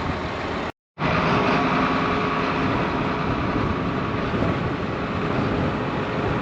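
Ford New Holland 8770 tractor's diesel engine running steadily, the sound cutting out completely for a moment just under a second in.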